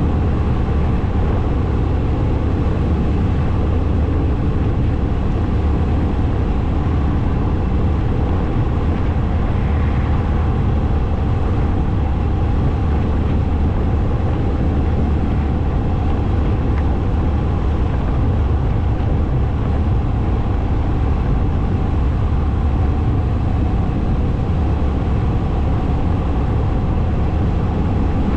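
Motorcycle riding along at a steady speed: a constant rumble of engine and road noise, heavy in the low end, with wind buffeting the microphone.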